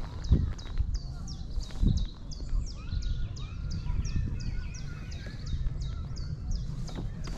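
A small bird calling in a fast, even run of short high chirps, about three a second, over a low steady rumble of wind and water. Two low knocks come early on, about a second and a half apart.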